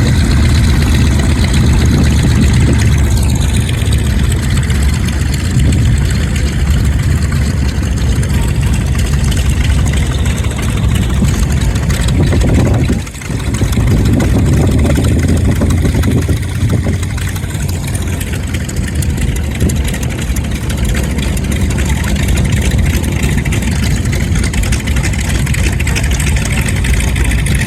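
Radial piston engines of Grumman Wildcat fighters running at taxi power: a loud, steady low rumble, with a brief drop in level about thirteen seconds in.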